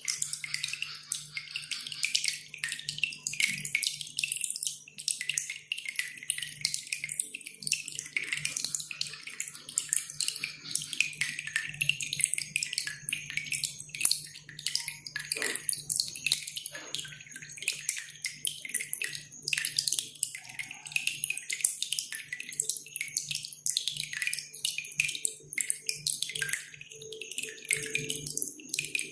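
Cililin songbird singing a fast, dense run of sharp high-pitched chattering notes, over dripping and trickling water. A faint low hum runs underneath.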